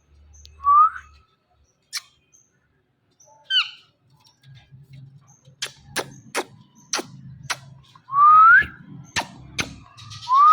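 Indian ringneck parrot giving short rising whistles, one about a second in and a louder one near the end, with a brief chirp between them. A run of sharp clicks comes in the second half.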